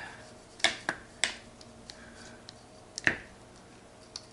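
Sharp metallic clicks of steel gearbox parts being pulled apart and handled, as the 1-2 synchro hub assembly is taken back off the mainshaft. There are three clicks in the first second and a half, a louder one about three seconds in, and a faint one near the end.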